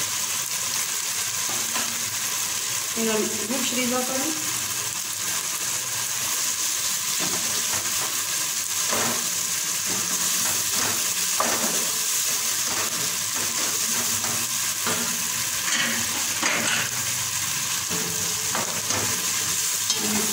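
Diced tomatoes and onion frying in oil in a pot, a steady sizzle, with a wooden spatula stirring and scraping the pot bottom in short strokes.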